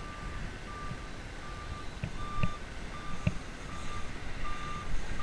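A vehicle's reversing alarm beeping steadily, one high tone repeated about three times every two seconds, with a few soft thumps underneath.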